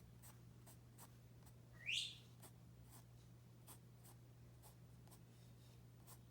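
Pencil drawing on paper: faint, short strokes about three a second. About two seconds in, a pet parrot gives one short rising whistle, the loudest sound.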